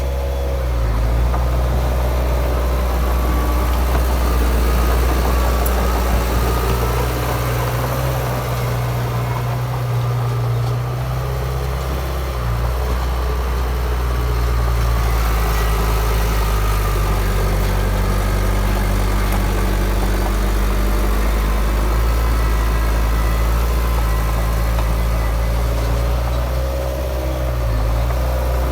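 Bulldozer's diesel engine running steadily, its note shifting a little now and then as the machine works.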